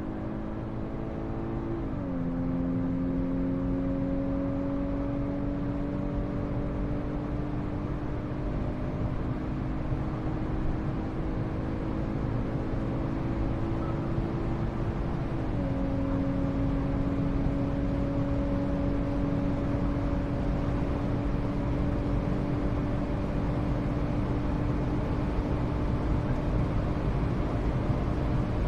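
Volkswagen Golf R (Mk6) turbocharged 2.0-litre four-cylinder pulling hard under acceleration, its note climbing slowly in the higher gears. It upshifts twice, about two seconds in and again about fifteen seconds in, and each shift drops the engine pitch suddenly.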